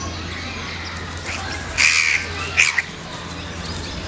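Crow cawing: two loud, harsh caws about two seconds in, less than a second apart, after fainter calls, over a steady low hum.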